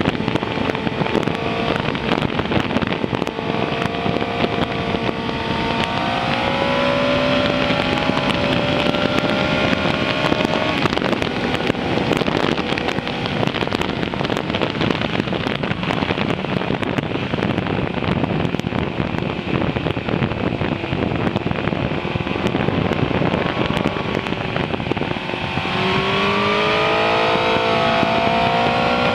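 Suzuki GSX-R 600's inline-four engine running under way over heavy wind noise. The engine note rises about six seconds in and again, more steeply, near the end as the bike accelerates.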